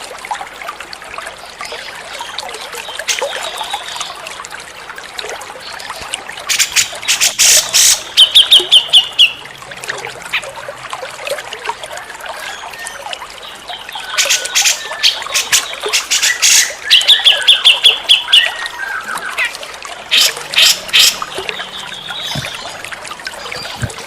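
Grey-cheeked bulbul (cucak jenggot) calling in three loud bursts of sharp chattering notes, each ending in a quick run of evenly repeated notes, over a steady trickle of running water.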